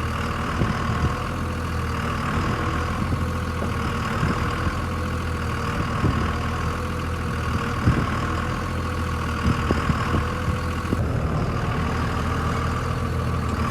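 Truck engine running steadily, with a few short knocks, while the truck is driven to get it unstuck in snow using only the rear wheels, since its front drive shaft is out.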